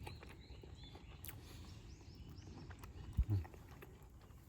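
Small birds singing in repeated short arched notes, with a single dull thump about three seconds in.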